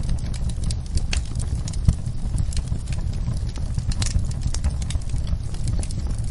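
Wood fire crackling in a fireplace: irregular sharp pops and snaps over a steady low rumble of the flames, with a louder pop about two seconds in.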